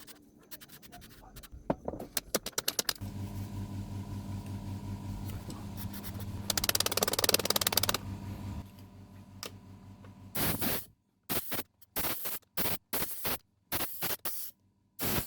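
Short hisses of a WD-40 aerosol can spraying into a sticking power selector switch, with a quick run of clicks as the switch is worked early on and a steady electrical hum under the first long spray.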